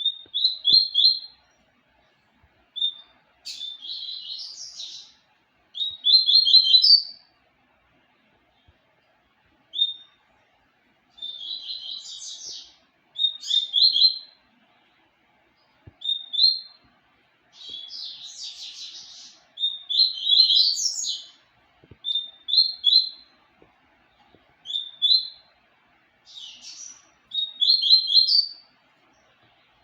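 Papa-capim seedeater (Sporophila) singing: short, high, fast twittering phrases repeated every second or two with brief pauses between them.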